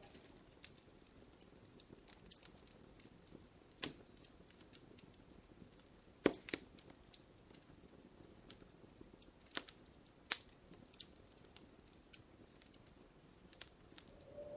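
Wood fire crackling in a fireplace: irregular small snaps and pops, with a few louder pops about four, six and ten seconds in.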